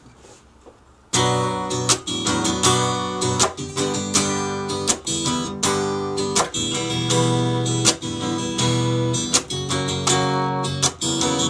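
Acoustic guitar strummed in a steady rhythm, starting abruptly about a second in after near-quiet: the instrumental introduction to a song, before the singing comes in.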